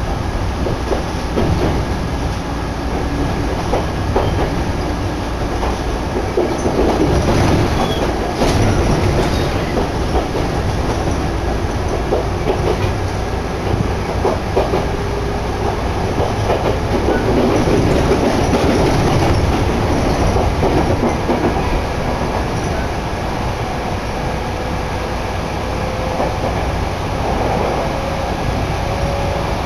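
Chichibu Railway electric train running along the line, heard from inside the car: a steady rumble with wheels clacking over rail joints and a faint whine now and then, mixed with air rushing in through an open window.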